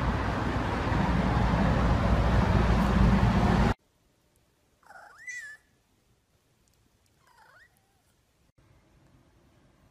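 Loud music with heavy bass cuts off abruptly a little under four seconds in. A cat then meows twice: a rising meow, then a fainter one about two seconds later.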